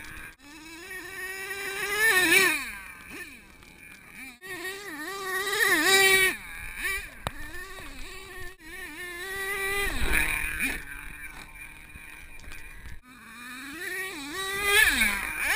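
HPI Savage X 4.6 RC monster truck's small nitro engine revving up and down, a buzzing whine that swells and fades in four long runs, its pitch wavering with the throttle.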